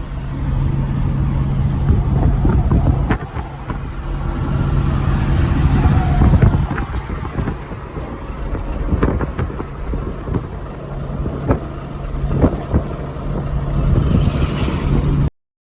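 Truck engine running on the road with a steady low drone and rumble, scattered with sharp knocks and rattles; the sound cuts off suddenly near the end.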